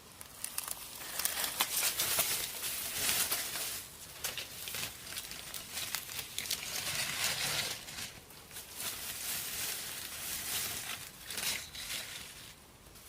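Irregular rustling and crinkling, with scattered light clicks, from dry material being handled.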